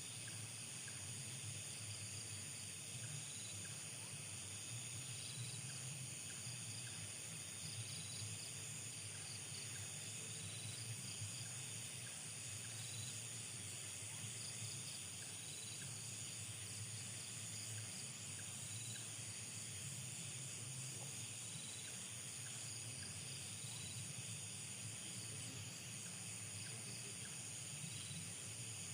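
Night insect chorus: several steady high-pitched trills layered together, with faint rhythmic chirps repeating over them, and a low hum underneath.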